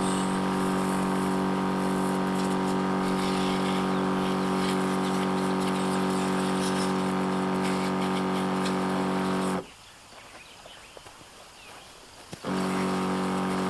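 SnoMaster 12 V cordless portable pressure washer's pump motor running with a steady hum and a hiss. It cuts out abruptly for about three seconds near the end, then starts again.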